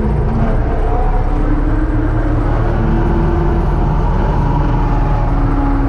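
Universal U650 tractor's diesel engine running steadily while pulling a seed drill, a constant loud drone with a low rumble and a slightly wavering whine.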